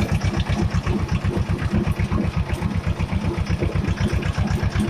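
Escort 335 tractor's diesel engine running as the tractor drives along a road, a steady, even pulsing of about eight beats a second.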